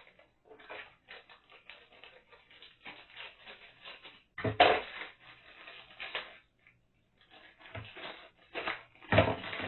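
High chair caster wheels and plastic frame parts being handled and pushed into their sockets: scattered rattles and clicks, with a loud knock about four and a half seconds in and more knocks near the end.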